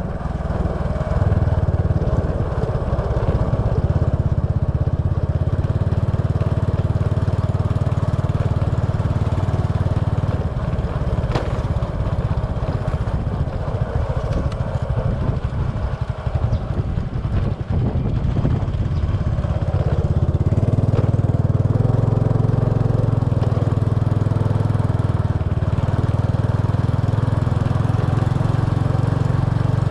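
Small motorbike's engine running as it is ridden, a steady low hum that eases off around the middle and picks up again about two-thirds of the way through.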